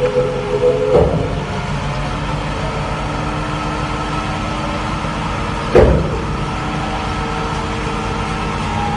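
Heavy truck engine running steadily, its pitch shifting about a second in. Two short, loud, sudden bursts, about a second in and just before six seconds.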